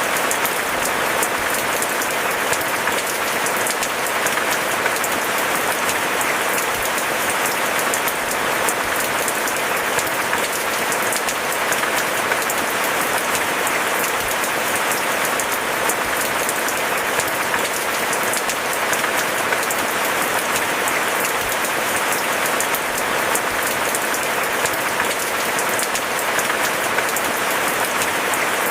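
Steady rain falling, a dense, even patter of countless drops with no break or change in strength. No thunder.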